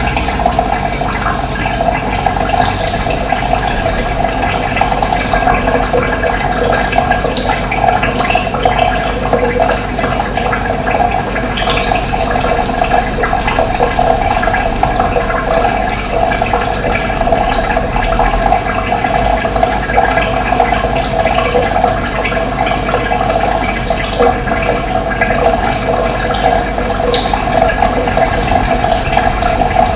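Running water flowing steadily, a continuous rushing and splashing.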